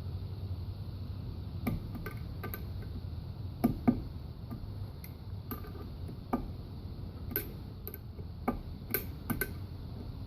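Light, irregular metallic clicks and taps of hand tools and valve stem seals against a Toyota 1ZZ cylinder head as the new seals are pressed into place, about a dozen in all, over a low steady hum.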